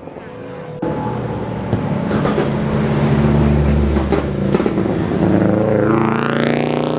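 Car engine and exhaust accelerating hard. It comes in suddenly about a second in, runs loud and low through the middle, then the revs climb steeply near the end.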